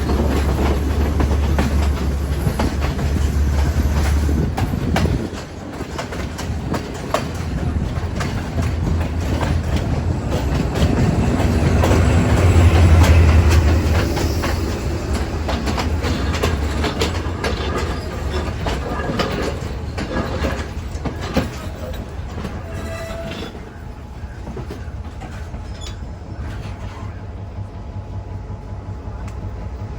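Train running on the line, its wheels clattering over the rail joints above a steady low rumble. The sound grows louder about halfway through and eases off near the end.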